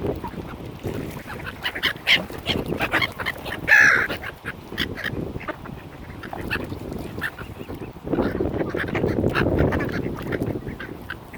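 Mallard ducks quacking and calling in a group, many short calls with one louder call about four seconds in, and a stretch of low noise from about eight to ten seconds.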